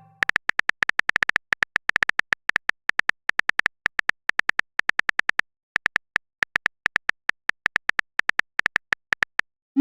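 Phone keyboard typing sound effect: a fast run of light, sharp clicks with a short break a little past halfway, then a short rising blip at the very end like a message being sent.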